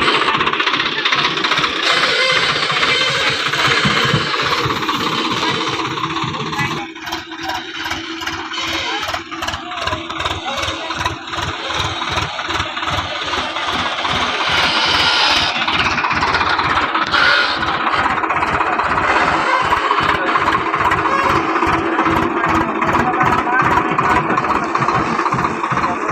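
Tractor diesel engine running with a steady, even chugging beat, easing off in level for a few seconds about a quarter of the way in before picking up again.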